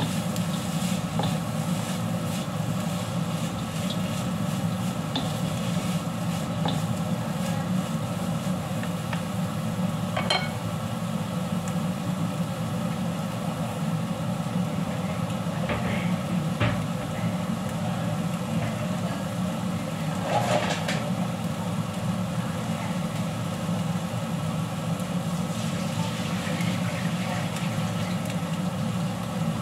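Noodles sizzling in a wok over a gas flame, over a steady low hum. A wooden spatula stirs and scrapes the wok at first, and a few sharp clinks of kitchenware come later.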